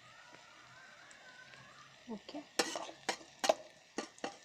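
A spoon stirring food in an electric kettle's pot, knocking against the pot about five times in the second half, over a faint frying hiss.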